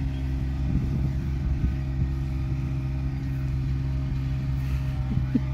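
John Deere 2320 compact tractor's three-cylinder diesel engine running steadily.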